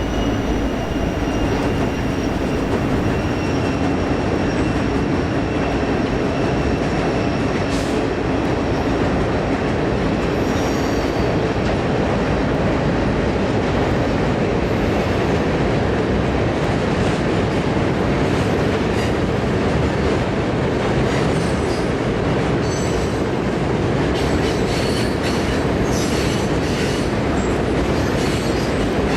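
A freight train rolling past on jointed or welded rail with a steady rumble of wheels and cars. A thin, high wheel squeal holds over the first several seconds and fades, and brief high squeaks come and go near the end.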